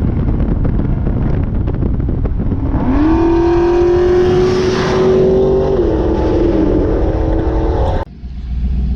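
Vehicle engine running, revved up about three seconds in and held at a steady high pitch for a few seconds, easing down slightly before the sound cuts off abruptly near the end.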